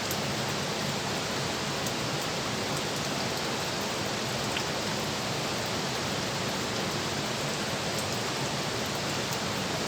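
Steady rush of fast-flowing water at a dam.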